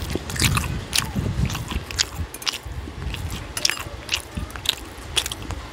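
Close-miked chewing of steamed siomai: a run of short, irregular mouth clicks and smacks, several a second.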